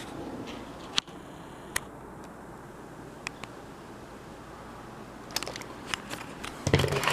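Handling noise from work on a circuit board: a few scattered light clicks over a faint steady room hiss, then a denser run of clicks and rustling near the end.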